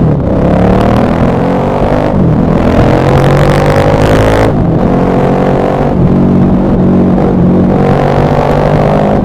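KTM 1190 Adventure R's LC8 V-twin engine pulling through the gears: revs climb, drop at a gear change about two seconds in and again about four and a half seconds in, then run steadier and climb once more near the end.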